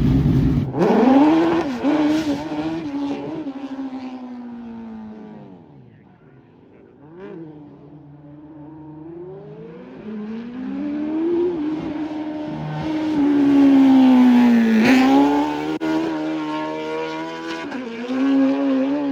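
Race car engine running hard, its note rising and falling through gear changes as the car pulls away and fades into the distance, then returns and passes close by with a sharp drop in pitch about fifteen seconds in.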